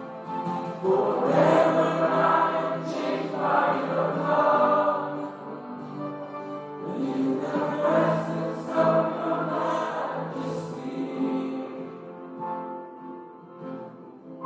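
Church music: a group of voices singing a worship song over sustained instrumental accompaniment.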